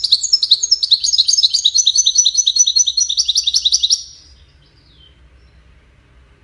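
European goldfinch singing: a fast, twittering run of high, rapidly repeated notes that stops about four seconds in, leaving a faint low hum.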